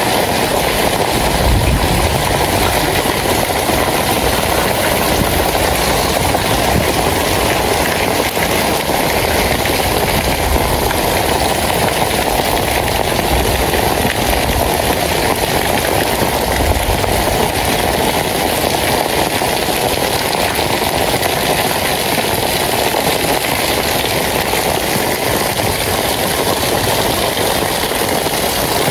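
Steady rain falling, an even, unbroken hiss, with brief low rumbles about a second and a half in and again around sixteen seconds.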